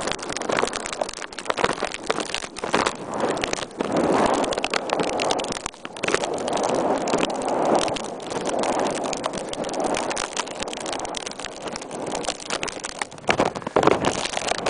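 Strong wind buffeting the plastic bag wrapped over the camera, with a steady run of crackling and rustling from the bag and gusts that swell and drop every second or two.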